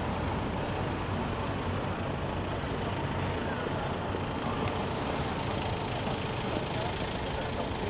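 Steady city street traffic: vehicle engines running and idling, a constant low rumble with a faint steady hum.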